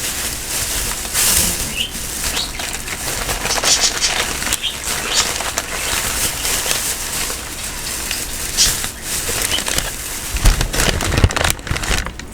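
Plastic shopping bag rustling and crinkling in irregular bursts as craft-store purchases are handled and taken out, with a few dull knocks of items set down near the end.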